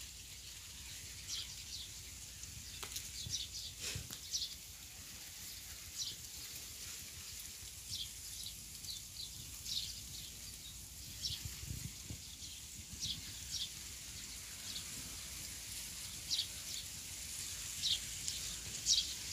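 Birds chirping in short, high calls scattered irregularly over a faint, steady low rumble.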